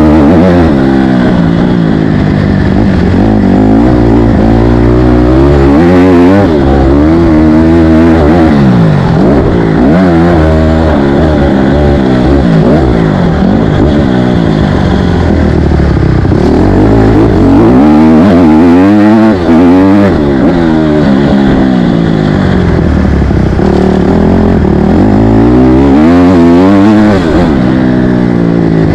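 Motocross dirt bike engine ridden hard on a track, revving up and easing off again and again as it climbs and drops in pitch every few seconds.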